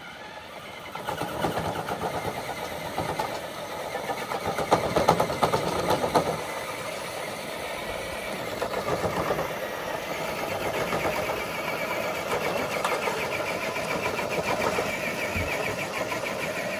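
Electric motor and geartrain whine of a radio-controlled scale truck pulling a dead-weight sled, running steadily under load and then stopping abruptly at the end.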